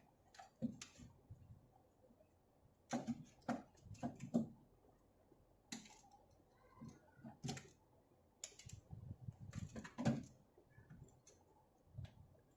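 Faint, irregular small clicks and taps from hand tools and a radio circuit board being handled while the rectifier bridge is taken out, coming in short clusters with quiet gaps between.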